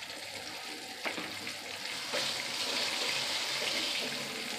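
Flour-dredged meatballs sizzling in hot canola oil in a frying pan, with a couple of soft knocks as meatballs are set into the pan; the sizzle grows louder about two seconds in.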